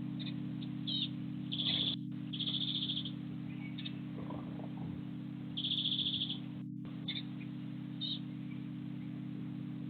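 Small garden birds chirping at a feeder: a few short, rapid trills and single high chirps, heard over a steady low hum.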